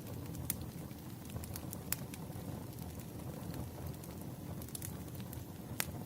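Burning firewood crackling: a steady low rumble of the fire with scattered sharp pops, three of them louder than the rest.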